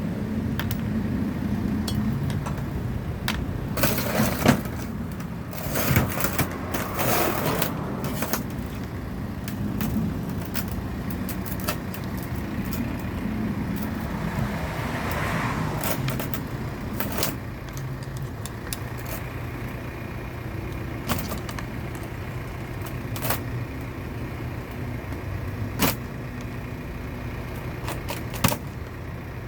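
Steady low mechanical hum with scattered sharp metallic clicks and knocks, a cluster of them about four to eight seconds in, from hand tools and engine parts being handled while a Stihl MS260 chainsaw is stripped down.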